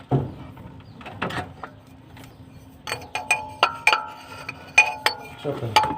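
Metal hand tools clinking and knocking against metal: a string of sharp clinks with short ringing, most of them in the second half.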